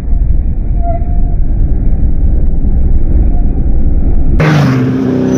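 A motor vehicle's low, steady rumble, heavy in the bass.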